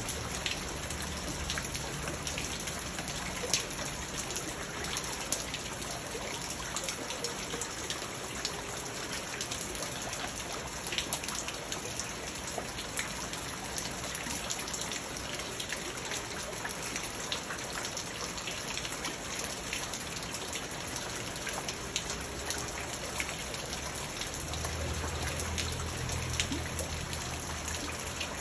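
Rain pattering steadily onto a garden pond and wet stones, with many small sharp ticks of single drops. A low rumble comes in near the end.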